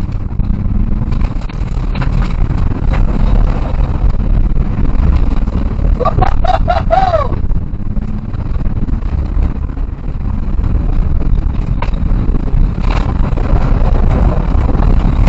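Citroën C2 rally car being driven hard, its engine running at high revs under load over steady road and gravel noise. About six seconds in, a short high-pitched sound rises and falls.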